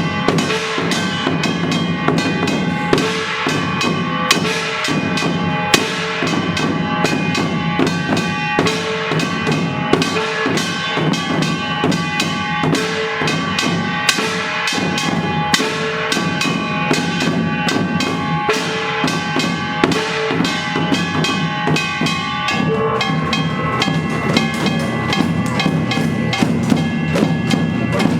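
Korean samulnori percussion played by a children's ensemble: janggu and buk drums beaten in a steady, driving rhythm, with the ringing of the kkwaenggwari and jing gongs held over the strokes.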